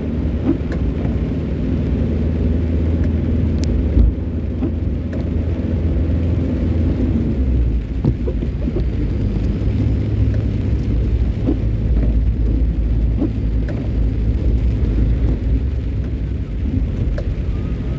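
A vehicle driving: steady low engine and road rumble, with scattered short sharp ticks over it.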